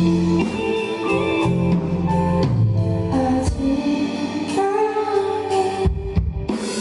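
Live band music: electric guitar and drum kit playing a song, with a brief pause in the cymbals and higher parts about six seconds in.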